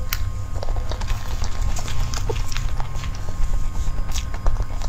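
Close-miked mouth sounds of eating soft sponge cake: chewing with scattered wet clicks and smacks, over a steady low hum.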